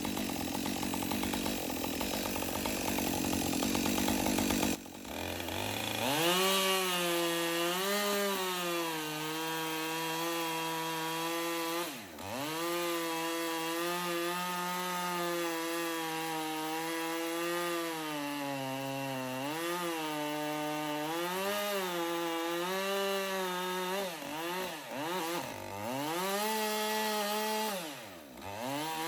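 Two-stroke chainsaw working in the tree: a rough, noisy stretch of cutting for the first five seconds, then the engine note climbs and runs at high revs, dropping briefly once in the middle and revving up and down several times near the end.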